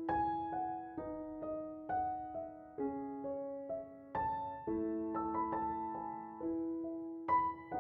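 Background music: a slow, gentle solo piano melody, its notes struck one or two at a time and left to ring out.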